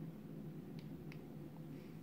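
Quiet room with a steady low hum and two faint light clicks about a second in, from handling the guided knife sharpener while setting its angle.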